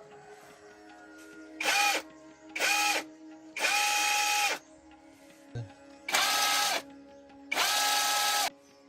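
A handheld electric power tool, drill-like, is run in five short bursts. Each burst is a steady whine that drops as the motor spins down, with the third and last bursts held longest.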